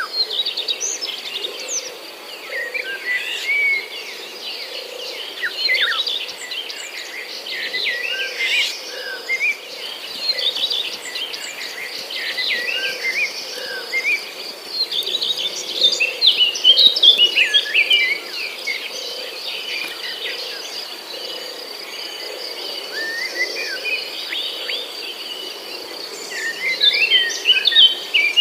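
Several small birds chirping and twittering in quick overlapping calls, over a steady high-pitched insect trill.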